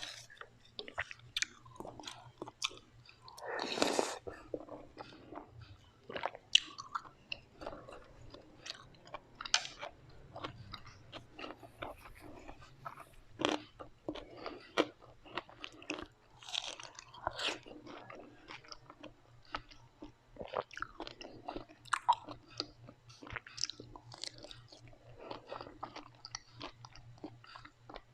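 Close-miked eating sounds: chewing with many short, crisp crunches and bites, and one louder, longer burst about four seconds in.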